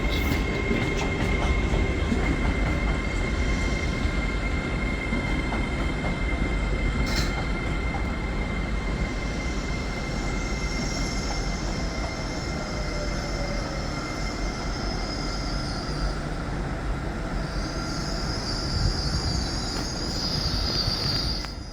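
Train pulling into the platform with its traction motors winding down as it slows. High-pitched brake squeal comes in twice during the second half, and the sound drops away just before the end.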